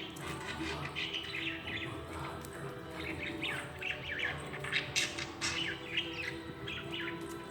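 Pet bird giving a rapid, irregular series of short chirps and squawks, with background music.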